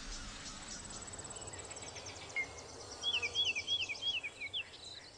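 Garden ambience with birds singing: a fast, high, faint trill, then from about three seconds in a run of five short whistled notes, each sliding up and then down.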